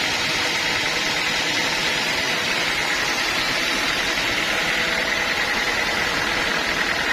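Sawmill saw running steadily, a constant mechanical rush with a high whine held throughout.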